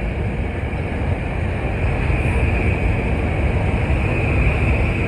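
Metro-North commuter train moving along the station track: a steady rumble of wheels and running gear with a faint high hum, growing a little louder about two seconds in.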